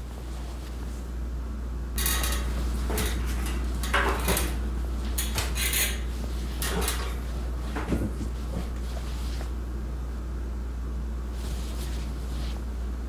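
A steady low hum, with irregular clinking and clattering of hard objects between about two and eight seconds in.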